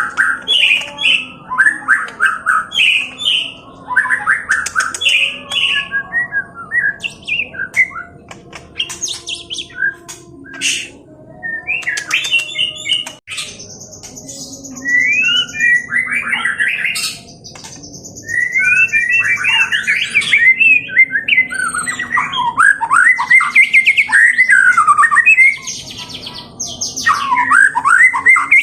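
White-rumped shama (murai batu) singing loudly in its aggressive 'fighting style' song. The song is made of rapid varied chattering phrases, with long steady high whistles in the middle and fast rising-and-falling trills toward the end.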